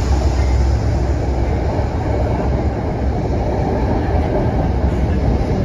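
Metro-North commuter train running along the tracks at the station, a loud, steady rumble of wheels on rail.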